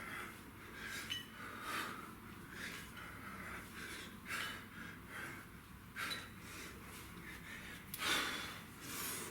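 A man breathing hard with exertion during kettlebell reps: short, forceful exhales come roughly once a second, with a longer, louder breath about eight seconds in.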